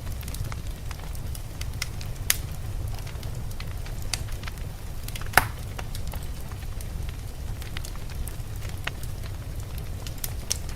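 Wood fire crackling, with scattered sharp pops (the two loudest about two seconds in and halfway through), over a steady low rumble of blizzard wind.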